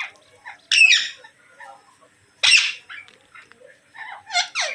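Green parakeets screeching: three loud, harsh calls, the last falling in pitch, with quieter chattering between them.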